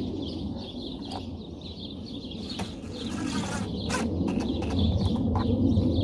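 Scattered clicks and knocks of a hand tool tightening a screw on a car's interior door handle, with a short rattle about three seconds in, as the fastener is run down tight. Birds chirp faintly in the background.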